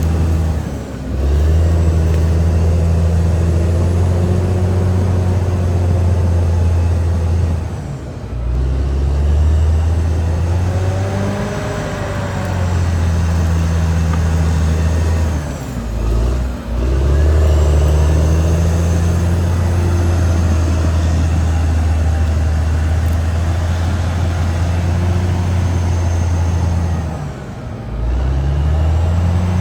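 Caterpillar D6R XL bulldozer's diesel engine running steadily with a strong low drone, dipping briefly four times as the load changes.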